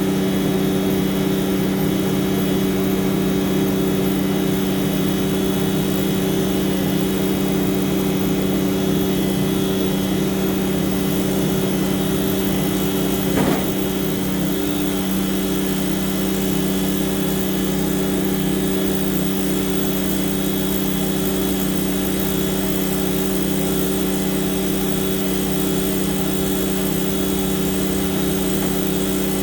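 Heavy truck's diesel engine running at a steady, unchanging pitch. There is one brief click about 13 seconds in.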